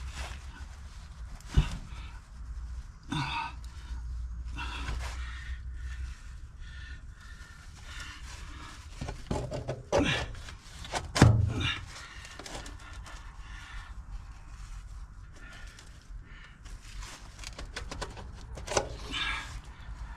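Irregular scraping and knocking of a plastic drain gully and pipe being worked and forced into place. There is a sharp knock about a second and a half in, and the loudest thumps come around ten and eleven seconds in.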